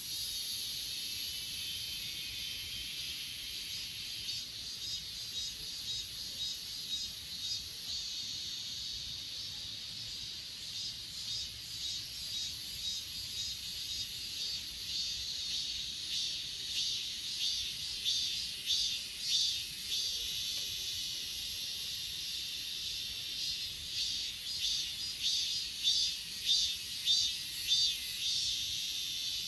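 Grass insects such as crickets chirping in a steady high chorus. From about halfway, a louder insect joins in with short repeated chirps, a couple a second.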